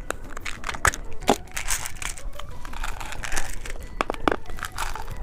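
Plastic candy packaging crinkling and rustling as it is handled and opened, with several sharp clicks and snaps.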